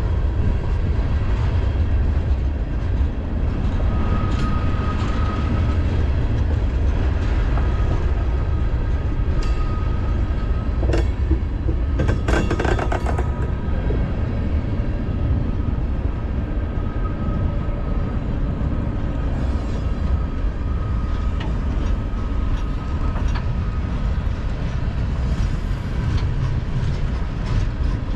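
Mixed freight train rolling past at close range: a steady, heavy rumble of wheels on rail, with a short run of sharp clanks about halfway through and a faint high squeal from the wheels now and then.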